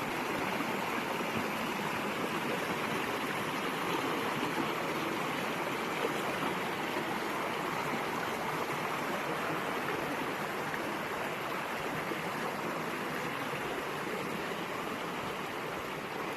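Small woodland stream babbling steadily.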